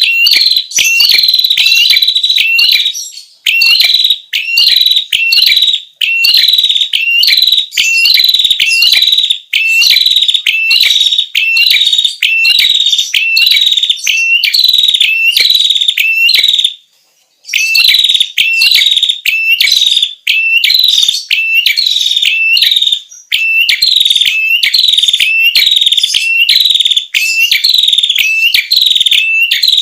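Recorded song of a prenjak kepala merah (a prinia), played as a bird-catching lure call: a fast, loud series of high chirps, about two a second, each dropping in pitch, with one brief break about 17 seconds in.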